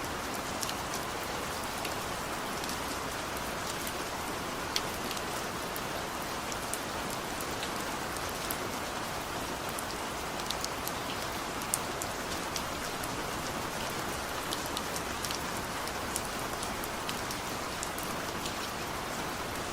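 Steady rain falling, an even hiss with scattered sharp drops pattering close by.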